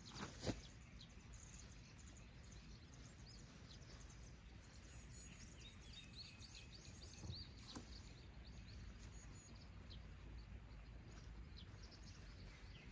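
Faint birds chirping in short high notes over quiet open-air ambience, with a single knock just after the start and a couple of small clicks later.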